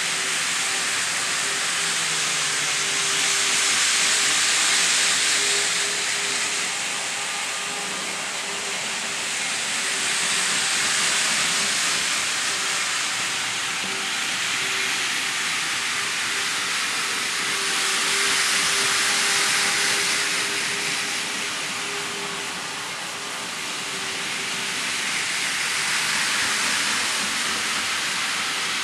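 N scale model train running around its layout: a steady hiss of wheels and motor on the track that swells and fades about every seven to eight seconds as it laps past, over a faint steady hum.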